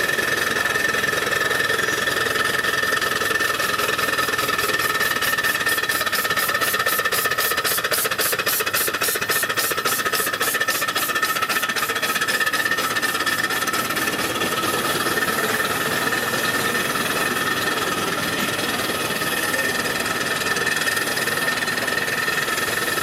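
An engine running steadily, with two steady high tones over it. For several seconds in the middle there is a fast, even ticking.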